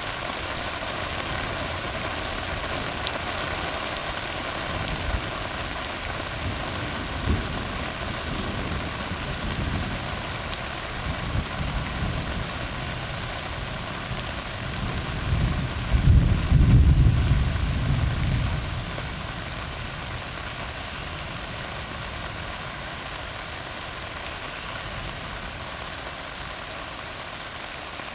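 Steady rain falling on a tar road, with a low rumble of thunder that swells and fades a little past the middle.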